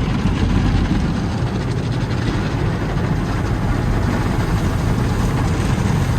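Rotating brushes of a tunnel car wash scrubbing the car body under spraying water, heard from inside the car: a steady, dense noise, heaviest in the low range.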